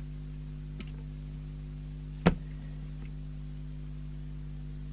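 Steady low electrical mains hum on the workbench, broken by a single sharp click about two seconds in: the CB radio's small power switch being flicked back to high power.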